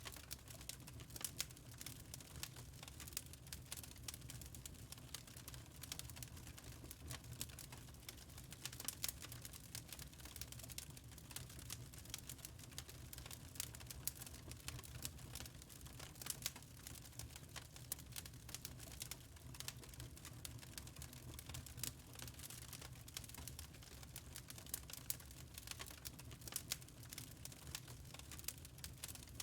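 Wood fire in a fireplace crackling: constant irregular pops and snaps over a low steady rumble.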